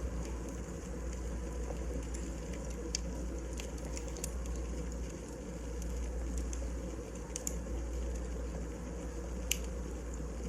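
Wood fire burning in a fireplace: a steady low rumble with a handful of sharp, irregular crackles and pops.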